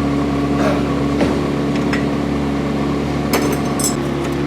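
BMW E9 3.0 CSL Group 2 race car's 3.2-litre six-cylinder engine idling at a steady pitch, with a few light metallic clicks and taps, the most about three and a half seconds in.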